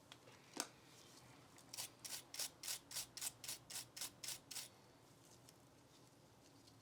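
Hand work on a Glock 19 pistol during cleaning and reassembly. A single sharp click comes first. About a second later there is a quick, even run of about ten short scraping strokes, three or four a second, lasting just under three seconds.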